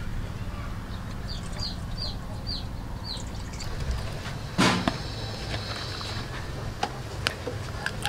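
A small bird chirping five times in quick succession, each a short falling note, with one short, louder sound about halfway through. A steady low hum runs beneath.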